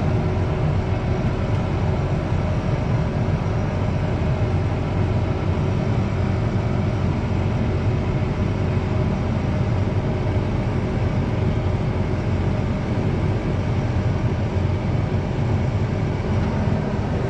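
Farm vehicle engine running steadily with a low rumble, a few faint steady tones above it.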